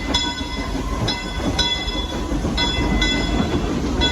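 Frisco Silver Dollar Line train running: a steady low rumble of the cars on the rails, with short high-pitched ringing tones coming and going every half second or so.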